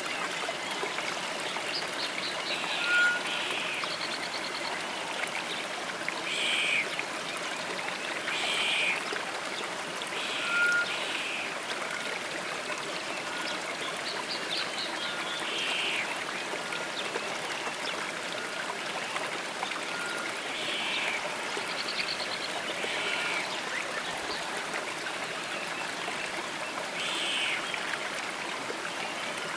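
Stream running steadily, with birds calling over it: short chirping calls every few seconds and a faint brief note repeating about every two seconds.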